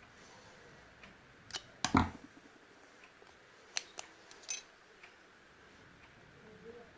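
Small metal engine parts being handled during reassembly: a few sharp clicks and knocks, the loudest about two seconds in, then a lighter cluster of clicks around four seconds in.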